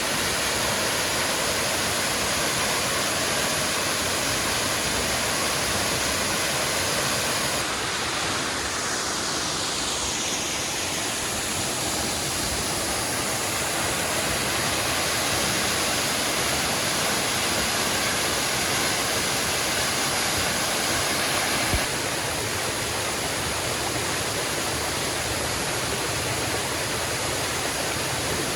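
Waterfall and river water rushing in a steady, even noise. A single short knock sounds about two-thirds of the way through.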